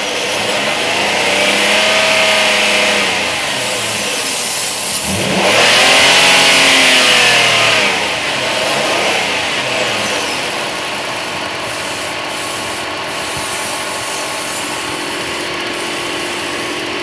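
Ford Edge engine running and revved twice, pitch rising and falling each time, the second rev louder, then settling to a steady idle.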